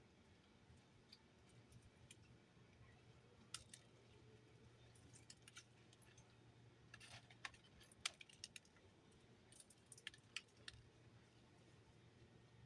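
Faint, irregular clicks and taps from small birds pecking and moving about a feeder, busiest in the middle, over a low steady hum.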